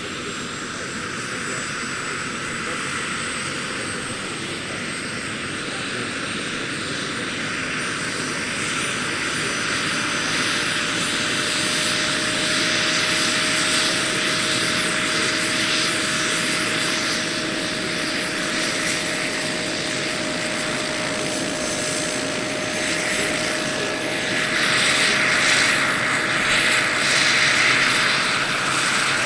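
Giant radio-controlled Bell 412 scale helicopter driven by a Jakadofsky 5000 model gas turbine, running with a steady high turbine whine over the rotor noise. It grows gradually louder and is loudest in the last few seconds.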